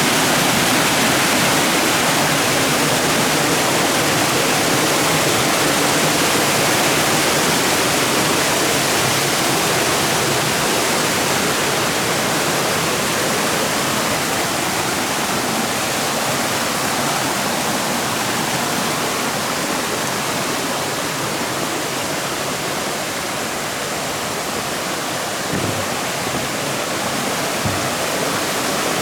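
Shallow water rushing steadily over rocks and small cascades in the water forest. The rush eases slightly partway through, and two faint knocks come near the end.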